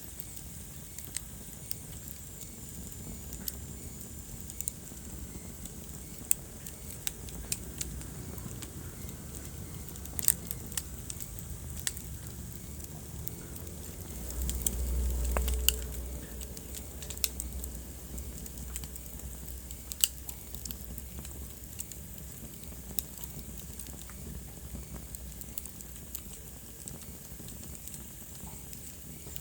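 Wood fire burning in a fireplace, crackling with scattered sharp pops over a steady low rumble. A louder low rumble swells for a couple of seconds about halfway through.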